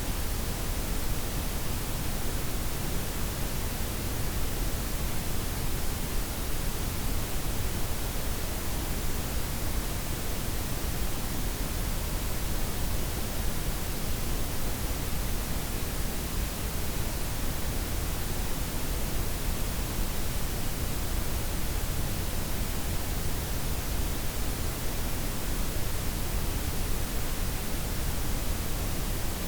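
Synthetic layered noise, a blend of white, pink and brown noise with the highs softened, hissing steadily and evenly without any change.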